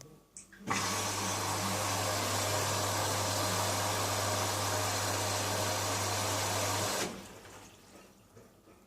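Indesit My Time washing machine filling at the start of a wash: the water inlet valve hums steadily and water rushes in. The sound starts under a second in and cuts off sharply about seven seconds in.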